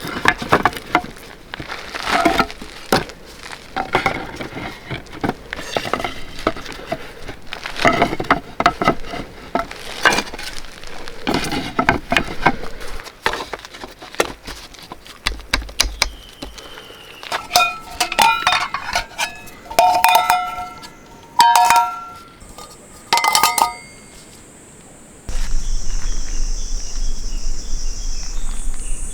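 Metal camping gear clinking and knocking together in irregular handling, several strikes near the middle ringing with a clear tone. Near the end a steady high-pitched insect drone sets in.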